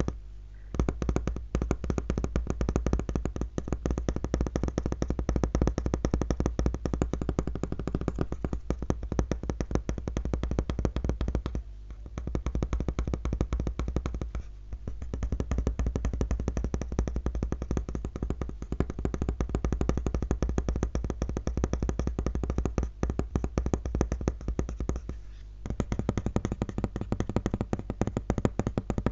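Fingers tapping fast and continuously on a laptop, many taps a second, breaking off briefly a few times.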